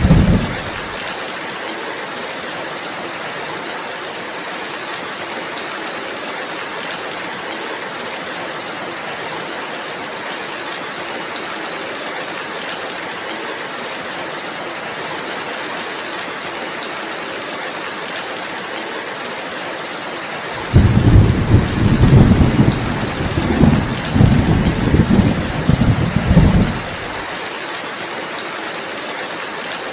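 Steady rain falling, with a loud, low thunder rumble that comes in suddenly about two-thirds of the way through, lasts about six seconds and stops suddenly. The tail of an earlier rumble dies away in the first second.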